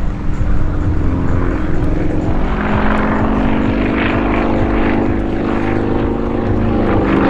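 A Sukhoi Su-26MX aerobatic plane in flight: the drone of its nine-cylinder Vedeneyev M-14P radial engine and propeller at a steady pitch. The propeller's rasp grows stronger a few seconds in.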